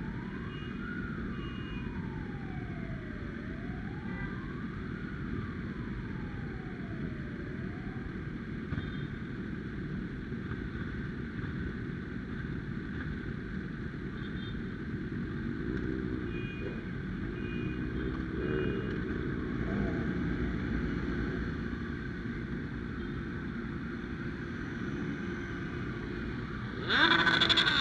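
A siren wailing, its pitch sweeping up and down about every two seconds, over steady road and wind noise; it stops about eight seconds in. Near the end a loud engine rev.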